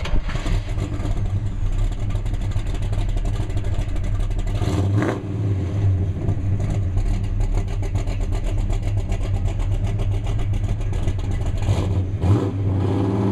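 Rebuilt 396 big-block V8 of a 1966 Chevelle SS running, its pitch rising in a brief rev about five seconds in and again near the end.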